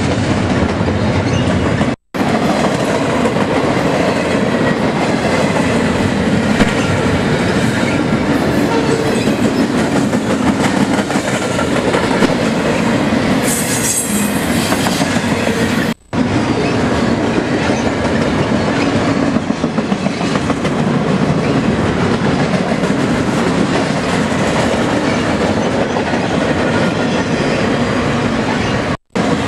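BNSF train passing close by: a steady rumble and clatter of wheels on the rails, with a brief high wheel squeal about halfway through.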